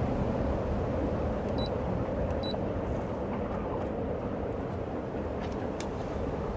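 Steady rushing wind noise on the microphone during a gusty windstorm, with two short high electronic beeps close together about two seconds in.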